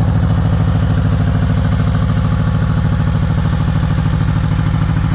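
Air-cooled Volkswagen flat-four engine running steadily, loud and close, with an even, rapid pulse.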